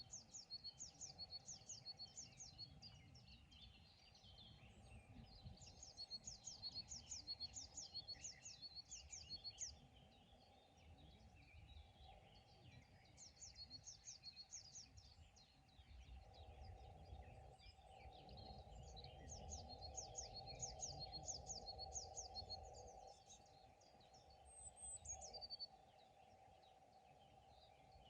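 A songbird singing by a pond: four phrases of rapid, high, repeated notes, each lasting a few seconds, with a single falling call near the end. Under it runs a faint steady low hum with rumble that grows louder for several seconds past the middle.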